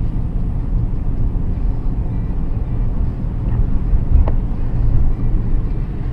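A vehicle in motion, heard as a steady low road-and-engine rumble, with a brief sharp sound about four seconds in.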